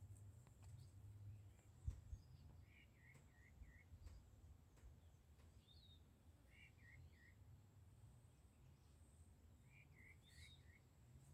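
A bird singing faintly: a short phrase of three or four quick notes, repeated about every four seconds. A low rumble runs underneath, with a single brief knock about two seconds in.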